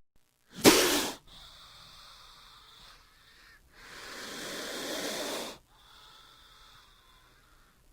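King cobra hissing: one short, sharp, loud hiss about half a second in, then a longer hiss that swells and cuts off abruptly about five and a half seconds in, with fainter breathy hissing between.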